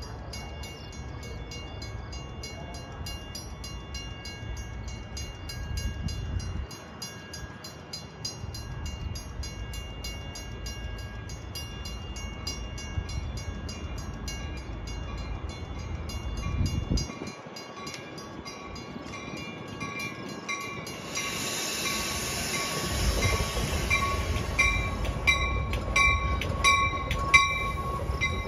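Metra commuter train running through the station with a low rumble, a bell ringing rapidly and steadily, and a short burst of hiss about three-quarters of the way through as the sound grows louder.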